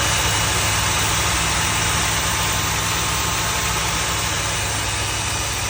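A 1984 car's fuel-injected engine idling steadily, with its ignition timing set well off. The timing is running really advanced, which the owner puts down to the distributor being off one tooth.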